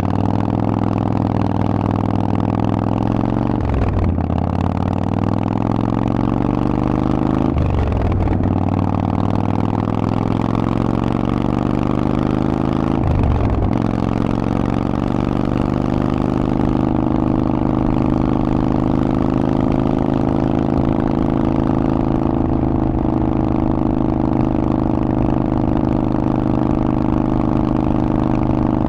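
Harley-Davidson Forty-Eight's 1200 cc V-twin running through a Vance & Hines exhaust, pulling up through the gears: the pitch climbs and drops sharply three times as it shifts up, then holds steady at cruising speed.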